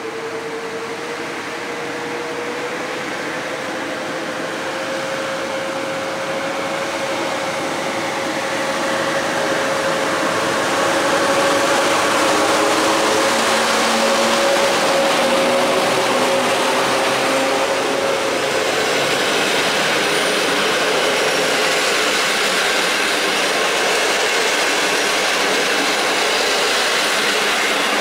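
PKP EP09 electric locomotive hauling passenger coaches through a station at speed. A steady whine grows louder as it approaches, is loudest as the locomotive passes about halfway through, then fades. After that comes the rushing rumble of the coaches rolling past.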